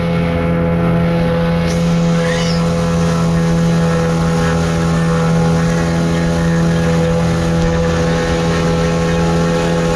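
Motorboat engine running steadily under way, a constant hum that holds one pitch.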